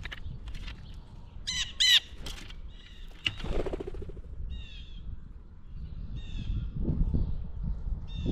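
Blue jays calling: two loud, harsh, down-slurred calls about two seconds in, then fainter calls of the same kind repeated every couple of seconds, over a low rumble.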